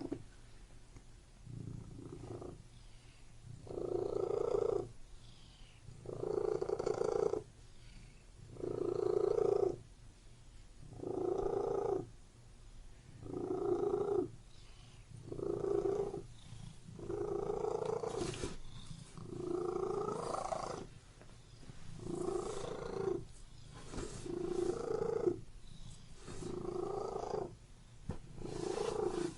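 Domestic cat purring, swelling louder and falling back in a steady cycle about every two and a half seconds.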